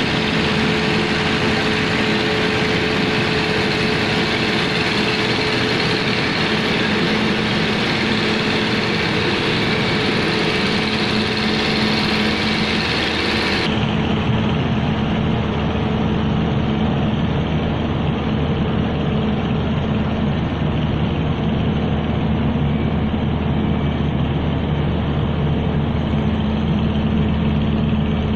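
Engine of a remote-controlled heavy shipyard boat-lifting machine running steadily at a constant speed. About halfway through, the higher hiss drops away suddenly and the low drone carries on.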